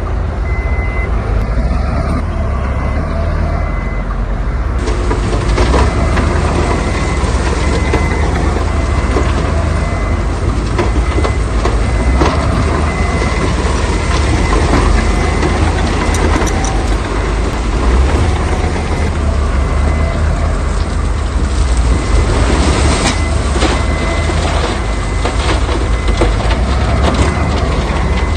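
Heavy diesel construction machinery running with a deep engine rumble, and a reversing alarm beeping steadily over it. Scattered knocks and clatter come near the end.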